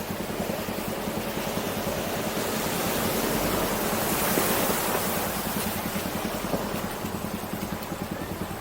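Vehicle engine running steadily with fast even pulsing, under a broad rushing noise of water that grows louder toward the middle and eases off near the end.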